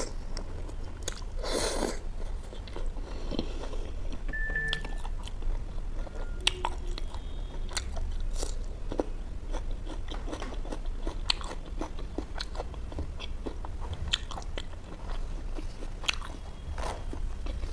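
Close-miked eating: biting and chewing naan dipped in butter chicken and raw onion slices, with many short wet mouth clicks and light crunches over a steady low hum.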